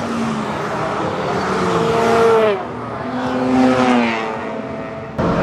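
Mazda RX-7's rotary engine revving hard at speed on a race track: the pitch climbs, dips sharply about two and a half seconds in, climbs again, then slowly falls away. The sound changes abruptly just before the end.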